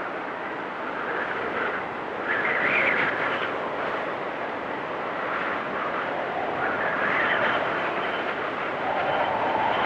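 Storm wind blowing in gusts: a steady rush with whistling tones that swell and shift in pitch, strongest about two to three seconds in and again around seven seconds.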